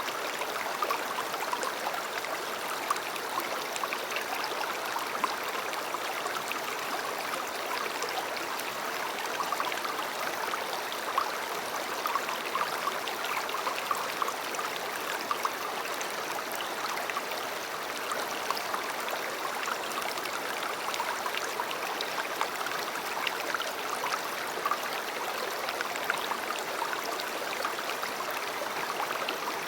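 A river flowing: a steady rush of running water, with many small splashes and trickles ticking through it.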